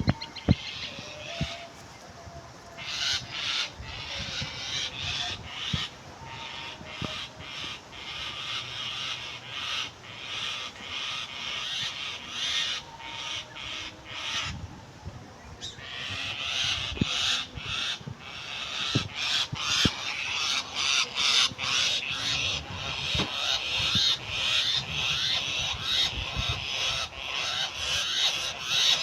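A bird calling over and over in short, harsh cries, several a second, pausing briefly twice and growing louder about halfway through.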